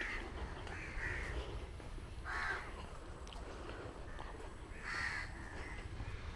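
Bird calls: four short calls, the loudest two about two and a half and five seconds in, over a steady low rumble.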